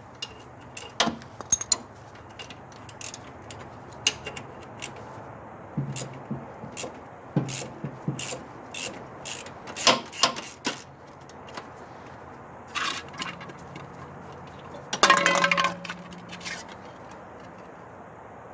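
Hand tools clinking and knocking against the metal of a snow blower while its oil is being drained: scattered sharp clicks and taps, with a denser rattling burst near the end.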